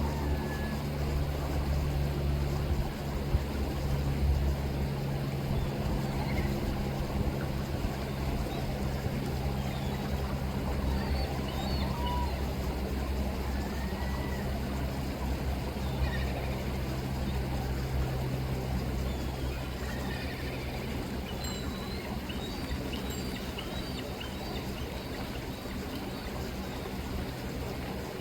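River water rippling under a steady low motor hum, strongest in the first few seconds. Faint short gull mews come and go over it, several of them in the second half.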